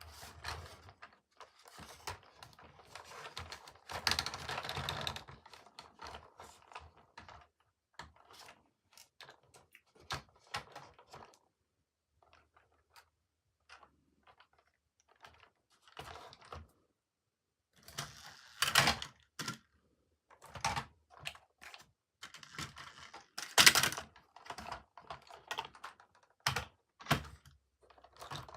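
Hands unboxing toy trains: scattered light clicks and taps of plastic toy pieces and packaging, with a longer rustle about four seconds in and louder bursts of handling noise near 19 and 24 seconds.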